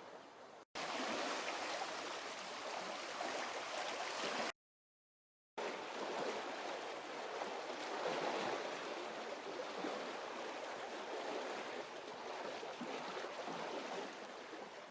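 Water rushing into a canal lock through the opened paddles as the chamber fills: a steady gushing. The sound cuts out completely twice, very briefly under a second in and for about a second around five seconds in.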